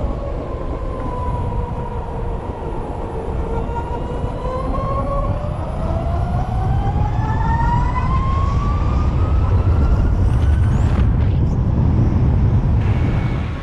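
Harley-Davidson LiveWire electric motorcycle running, its electric drive whining over a low rumble. The whine dips in pitch over the first few seconds, then rises steadily as the bike speeds up, fading near the end.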